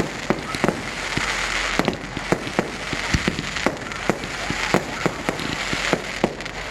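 Fireworks going off: many sharp, irregular bangs and pops, several a second, over a steady noisy background.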